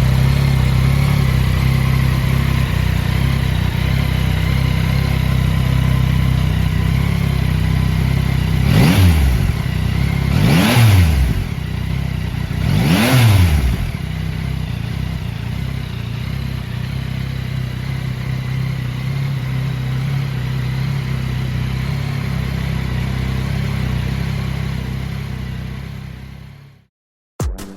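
Yamaha XSR900's three-cylinder engine idling, blipped three times in quick revs that rise and fall sharply, then idling again before it cuts off near the end.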